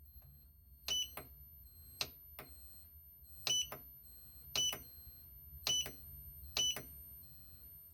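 Growatt SC4880-MPV solar inverter/charger giving off a steady, very high-pitched whine while charging, with short pulsing beeps that come in pairs about once a second. The owner says this is not its alert sound and does not know why it makes this noise.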